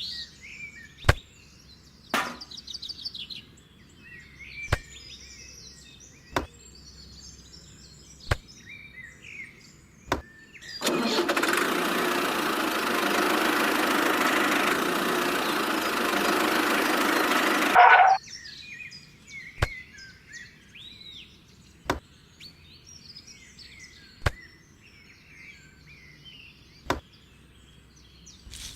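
Small birds chirping in the background, with sharp single taps every couple of seconds. A loud, steady rushing noise runs for about seven seconds in the middle and then stops abruptly.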